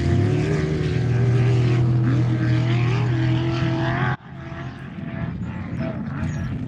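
Off-road race vehicle engine running hard at a fairly steady pitch. About four seconds in the sound cuts off abruptly to a quieter, more distant engine.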